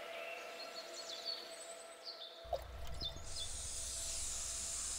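Faint birdsong, a few short falling chirps, over a quiet outdoor background. About halfway through, a low rumble comes in, and a steady hiss soon after.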